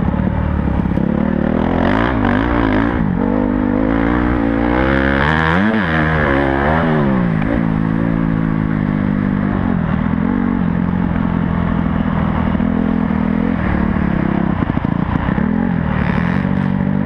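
Honda CRF250 four-stroke motocross bike engine under throttle, revving up and down in quick rising and falling sweeps through the first half, then running at a steadier, lower pitch, picking up again near the end.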